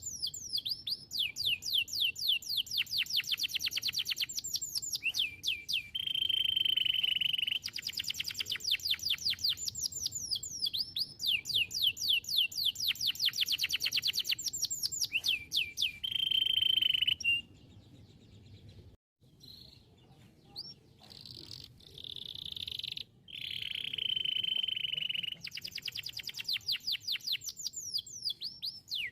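Domestic canary singing: rapid trills of quick, downward-sweeping high notes, broken three times by a long steady held note. The song drops to a few scattered notes for a few seconds just past the middle.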